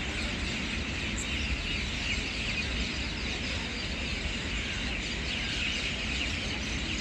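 Many birds chirping over a steady low rumble.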